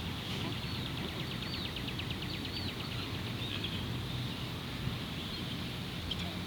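A bird singing a fast trill of short, evenly repeated high notes, about ten a second for two to three seconds, over a steady low outdoor rumble.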